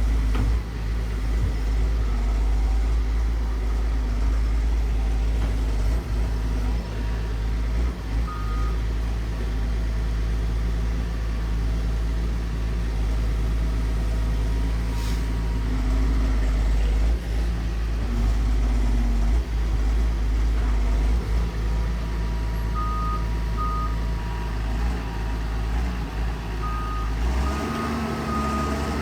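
Excavator's diesel engine running steadily under work, with a travel alarm beeping briefly about a third of the way in, a couple of times later, and repeatedly near the end as the engine picks up.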